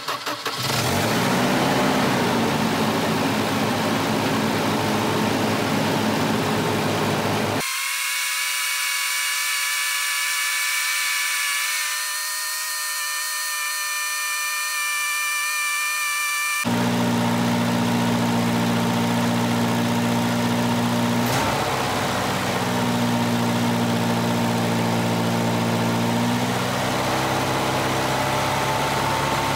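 Volvo 240's B230F four-cylinder engine finishing a crank, catching and settling into a steady high idle, with an exhaust leak. The idle staying high as the engine warms is the symptom of a sticking idle air control valve. For about nine seconds in the middle the sound turns thin, and near the end the idle note shifts slightly.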